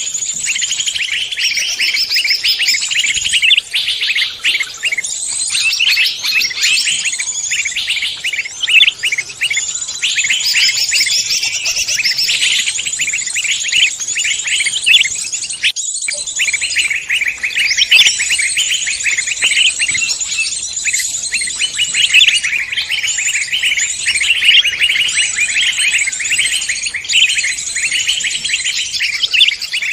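Dense chorus of many songbirds chirping and trilling over one another without pause: a mixed bird-lure recording of forest songbirds. There is a brief break about halfway through.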